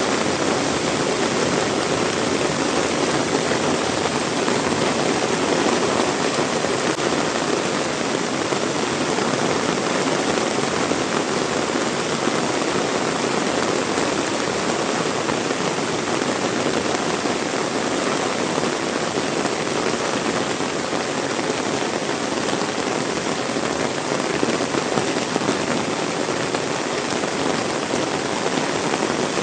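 Heavy rain falling steadily, a dense even hiss of rain on surfaces without letup.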